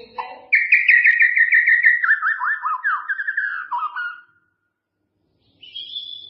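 White-rumped shama singing: a fast run of rapidly repeated notes that turns into looping downward slurs, lasting about four seconds. After a short pause, a single clear whistled note near the end.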